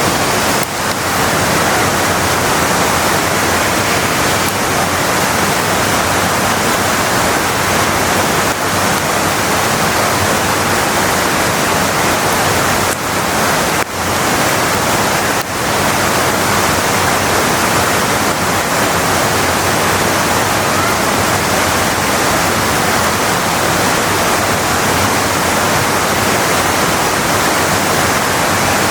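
Large waterfall: a loud, steady rush of falling water, dipping briefly twice about halfway through.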